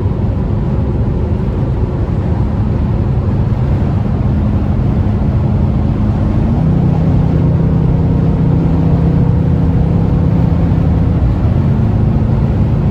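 Mercedes C63 S AMG's twin-turbo V8 heard from inside the cabin at autobahn speed: a steady engine drone over heavy wind and road noise. About halfway through, the drone steps up in pitch and grows a little louder, then eases back near the end.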